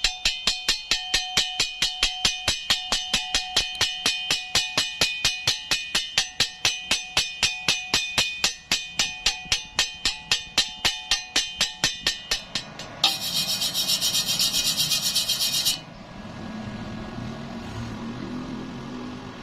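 Fast, even hammering on steel, about four or five ringing metallic strikes a second, stopping about twelve seconds in. A few seconds of harsh hiss follow, then a low rumble.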